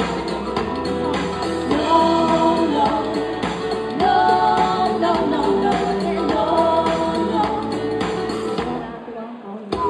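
Live band music with a woman singing held, gliding notes over a steady drum beat; the sound dips briefly near the end before the band comes back in.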